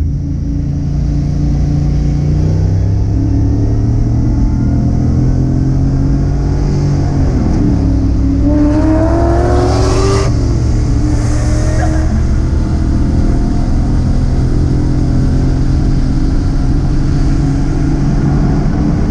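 Car engine running steadily, with a rise in revs about eight to ten seconds in before it settles back.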